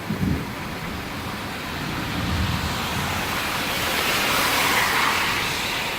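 Thunderstorm downpour with gusting wind, a steady rush of rain that swells louder about four to five seconds in.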